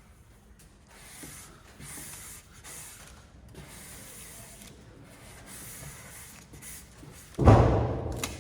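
A series of short rubbing or scraping strokes on a surface, then a loud sudden noise about seven and a half seconds in that dies away over about a second.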